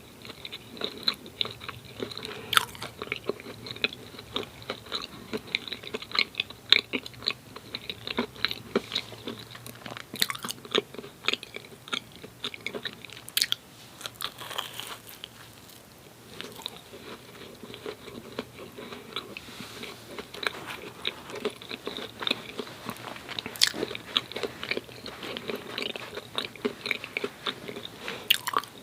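Close-miked chewing of soft glazed Krispy Kreme doughnuts: sticky, wet mouth sounds and lip smacks in an irregular patter, easing off for a few seconds a little past halfway.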